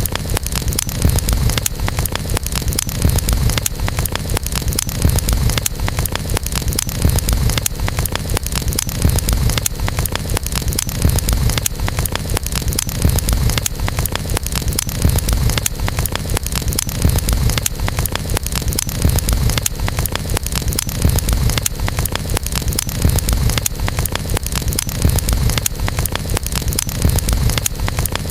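Campfire burning, with dense, steady crackling of wood over a low rumble.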